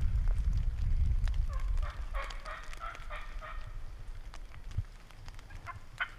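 Turkey yelping: a run of about eight short, evenly spaced yelps lasting about two seconds. Wind rumbles on the microphone before them.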